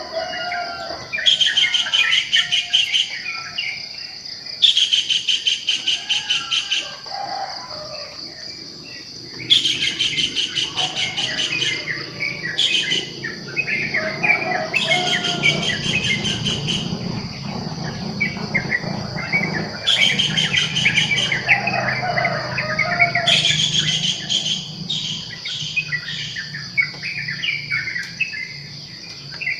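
Morning birdsong: several birds chirping and singing over a steady high insect drone, with a rapid trilling phrase about a second and a half long repeating every few seconds.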